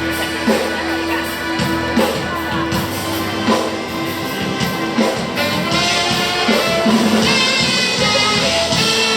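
Live band music from a concert PA during a sound check, with a drum kit hitting a slow steady beat and sustained instrument notes filling in over the second half.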